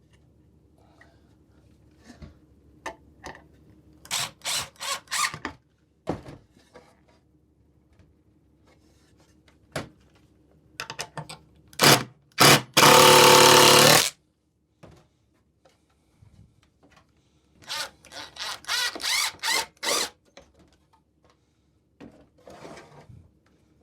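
Power drill driving screws into the wooden birdhouse roof. There are short stuttering trigger bursts, one long steady run about halfway through, and another burst of short pulses later on, with light knocks of wood handling in between.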